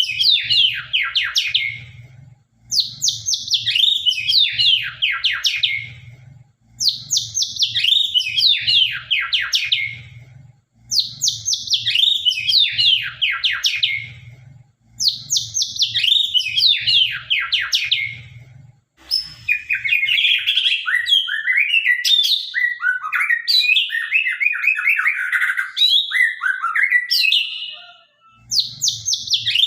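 White-rumped shama (murai batu) singing: a loud descending trilled phrase repeated about every four seconds, five times over. In the second half it breaks into a longer, more varied warbling run of notes lower in pitch for about nine seconds, and the trilled phrase returns near the end.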